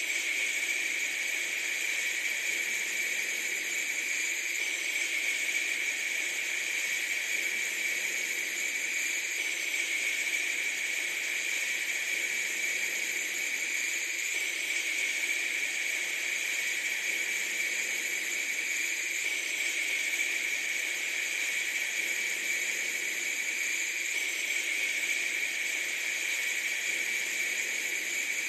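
Steady, unchanging hiss, strongest in the upper-middle range, with no deep rumble under it.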